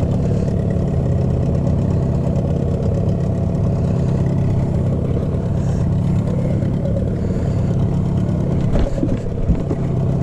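Boat engine running steadily at a low idle-like hum, with a couple of short knocks near the end.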